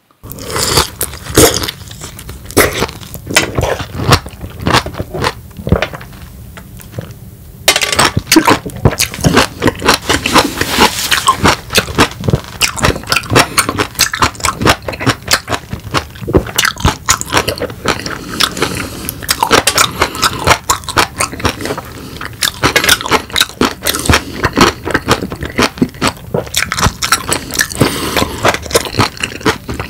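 Close-miked biting and chewing of a raw peeled lemon, a dense run of wet mouth clicks and smacks that gets louder about eight seconds in.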